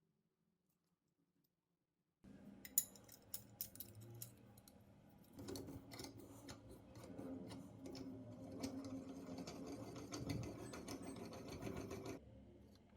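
Small metal parts clicking and scraping under hand work. The sound starts about two seconds in with a run of sharp clicks, turns into steadier rubbing with clicks mixed in, and stops about a second before the end.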